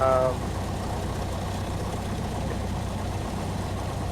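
Cessna 172SP's Lycoming IO-360 four-cylinder engine idling steadily. A brief, loud pitched sound comes right at the start.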